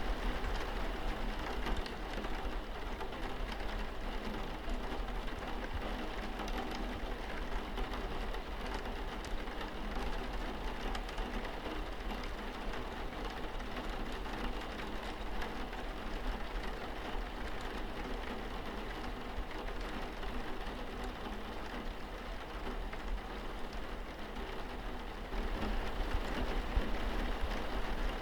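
Steady rain falling and pattering on a window, a little louder near the end.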